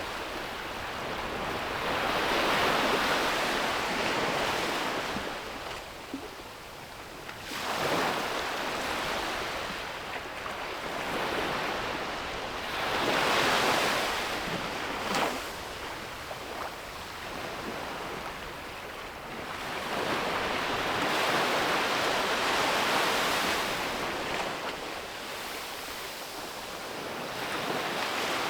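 Sea waves breaking and washing up a beach, the surf swelling and ebbing every few seconds, with a brief sharper splash about halfway through. Wind rumbles on the microphone.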